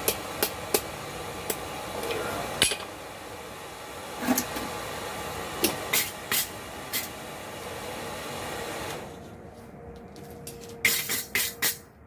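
Steady hiss of a blacksmith's forge running, with sharp clinks and knocks of metal tools on the hot blade being twisted. The hiss drops away about three-quarters through, and a quick run of four knocks comes near the end.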